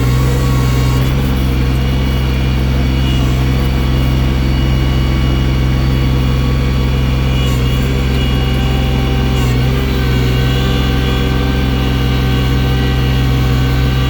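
Tractor engine running loud and steady at a constant pitch, with small shifts in pitch about ten seconds in.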